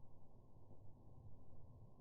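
Faint, low, muffled rumble of a fire burning in a fireplace, steady without distinct crackles.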